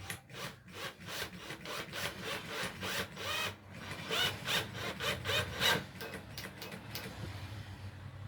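Hand saw cutting through a piece of wood in quick back-and-forth strokes, about three to four a second. The strokes stop about seven seconds in.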